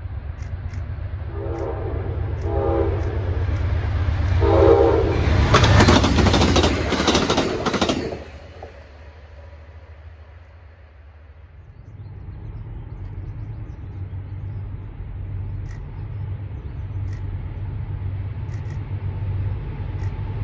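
An approaching train sounds its horn in three blasts, then passes close by at speed in a loud rush of wheel and air noise that cuts off sharply about eight seconds in. A steady low rumble follows as it moves away.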